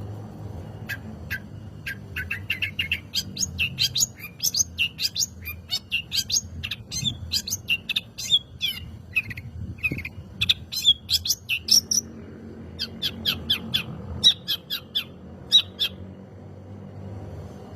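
Long-tailed shrike singing a fast, chattering run of short, sharp notes, several a second, broken by brief pauses, with a low steady hum underneath.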